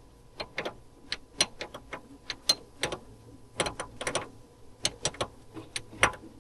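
Hand tools working on metal: irregular sharp clicks and taps, a few a second, as the lines are refitted to a new steering rack.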